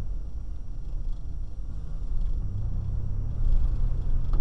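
A car's engine and road rumble heard from inside the cabin as a low, steady hum. It grows louder over the last couple of seconds as the car pulls out through a turn, with a single click right at the end.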